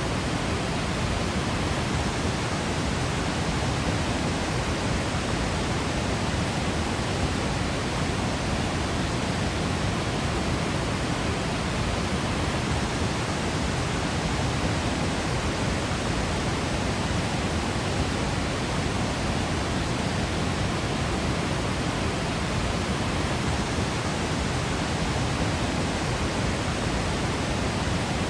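Waterfall rushing with a steady, even roar of falling water, unchanging throughout.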